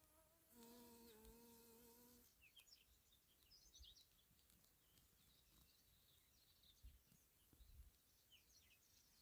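Faint chirping of small birds, many short high chirps. About half a second in, a single level-pitched animal call lasts under two seconds.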